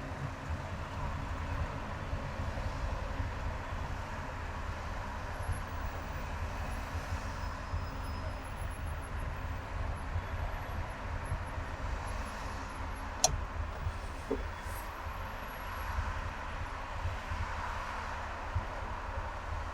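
A car driving on a highway: a steady low rumble of engine and tyre noise. A single sharp click about two-thirds of the way through.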